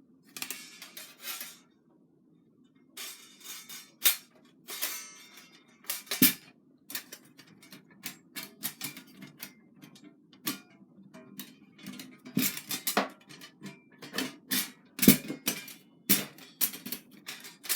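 Thin 1 mm stainless steel plates of a flat-pack fire pit clinking and clanking as they are slotted together, with irregular sharp metallic clicks that come thicker in the second half.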